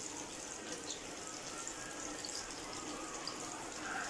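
Eggplant slices dusted in flour sizzling steadily as they shallow-fry in hot oil in a frying pan.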